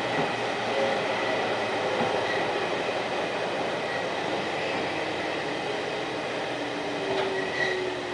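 Toyama Chihō Railway 14760-series electric train running, heard from inside the car: steady rolling noise with a low whine that falls slowly in pitch over the second half as the train slows for its stop.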